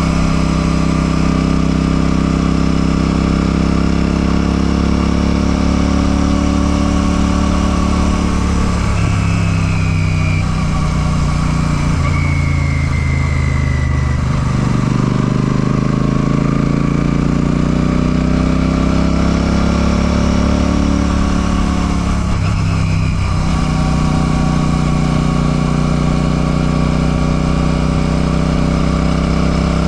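Royal Enfield Classic 650's parallel-twin engine running while the motorcycle is ridden. The engine note breaks briefly twice, about a third of the way in and again about three-quarters through. In between, it sags and then climbs back up.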